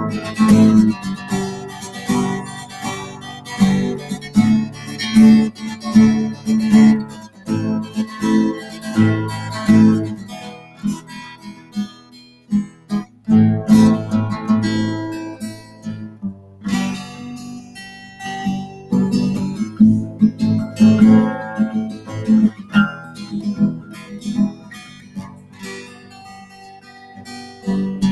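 Solo acoustic guitar playing an instrumental song, strummed and picked chords with a few short pauses between phrases.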